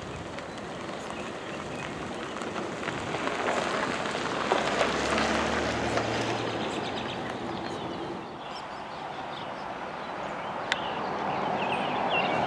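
Loaded grain cars of a freight train rolling past on the rails, a steady wheel noise that grows louder toward the end. Birds chirp near the start and again near the end.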